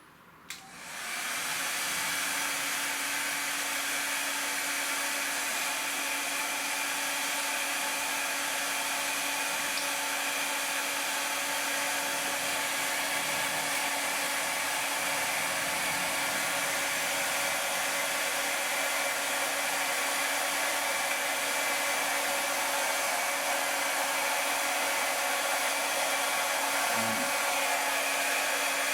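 A hand-held hot-air blower is switched on with a click about half a second in. It spins up within a second and then runs steadily, a rushing blow over a constant motor hum.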